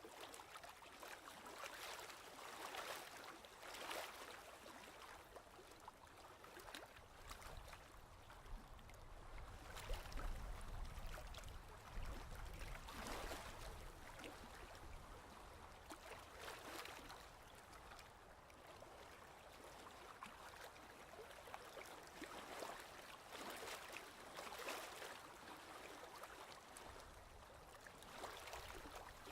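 Ocean waves washing, faint: a soft hiss of surf that swells and falls every second or few, with a low rumble under it near the middle.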